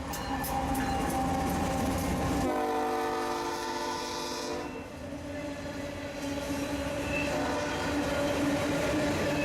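Freight locomotive horn sounding a chord of several notes over the rumble of a train. The horn is strongest for about two seconds, starting a couple of seconds in, then the train's rumble and a steadier drone carry on.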